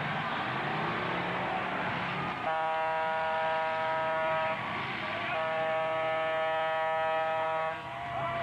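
A horn sounding two long blasts of about two seconds each with a short gap between, over a steady background din.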